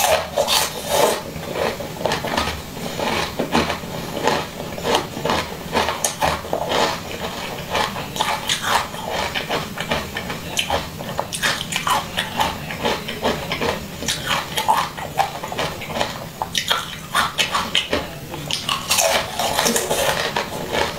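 Close-miked wet chewing and mouth sounds of a person eating a bead-filled jelly candy ring: many irregular squishy clicks and smacks.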